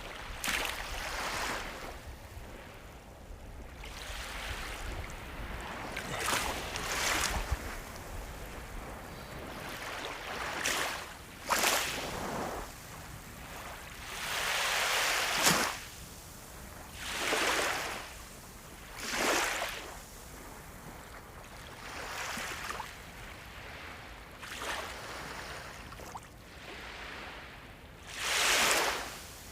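Ocean waves breaking and washing ashore one after another, each a rush of surf that swells and falls away every two to three seconds.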